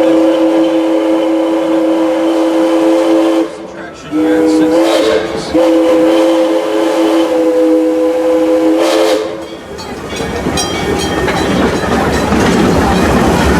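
Steam locomotive's chime whistle blowing two long blasts, the first ending a few seconds in and the second lasting about five seconds. After it, the train rolls on with a rumble and scattered rail clicks.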